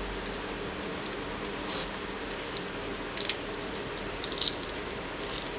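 Chopped vegetables and herbs frying in hot oil in a saucepan: a steady sizzle with scattered sharp pops and crackles, the loudest clusters about three seconds in and again past four seconds.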